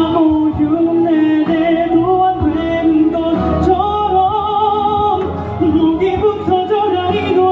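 A man singing a pop song over backing music, holding notes for about a second at a time and sliding between them.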